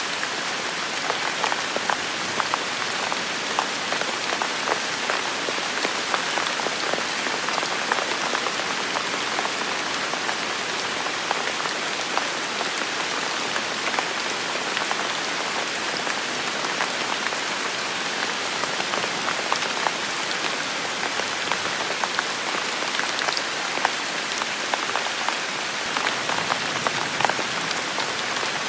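Heavy rain falling steadily, with many individual drops striking close by as sharp ticks over the continuous hiss.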